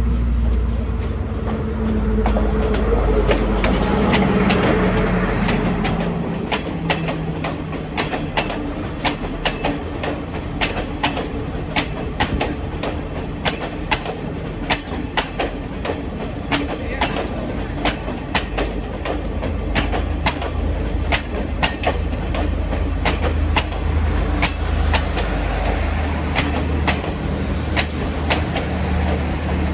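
Sri Lanka Railways Class S14 diesel multiple unit passing close by. The leading power car's diesel engine hum dies away over the first few seconds. Then the coaches' wheels click steadily over the rail joints above a running rumble, and the low engine hum of the rear power car builds again near the end.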